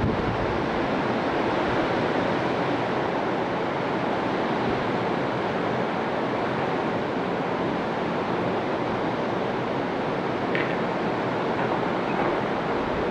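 Steady wash of Caribbean surf breaking on the beach, an even rushing noise without pauses.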